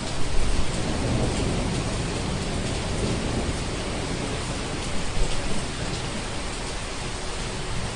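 Steady heavy rain with a low thunder rumble swelling about half a second in and fading over the next couple of seconds.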